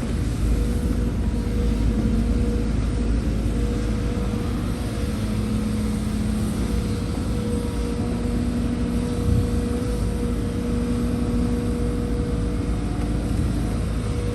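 Heavy diesel earthmoving machinery running steadily: a deep engine drone with a constant whine over it, and a single small knock about nine seconds in.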